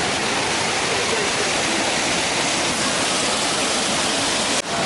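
Waterfall pouring: a steady, dense rush of falling water, with a brief drop in level near the end.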